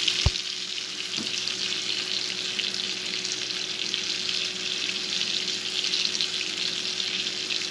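Egg-coated cassava mince balls shallow-frying in hot oil in a frying pan: a steady sizzle, the egg making the oil froth. There is a sharp knock just after the start and a fainter one about a second in.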